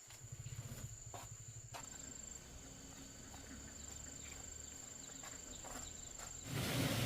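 Crickets or other insects trilling with one steady high note, over a low, fast pulsing sound. Near the end a louder, even rushing noise starts suddenly.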